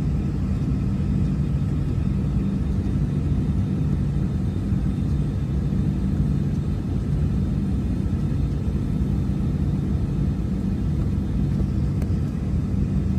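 Steady low drone of a jet airliner heard from inside the cabin while it waits on the ground before takeoff, with two low humming tones held throughout.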